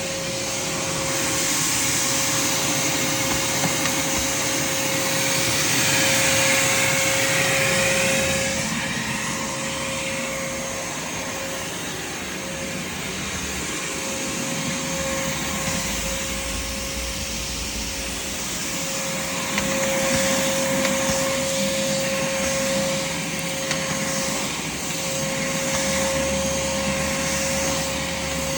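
Craftsman shop vac running steadily: a rush of air with a constant motor whine that holds one pitch, the air noise swelling and easing a few times.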